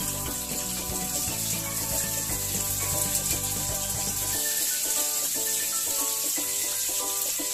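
Chicken pieces sizzling in hot oil in a frying pan, with a steady hiss, over background music.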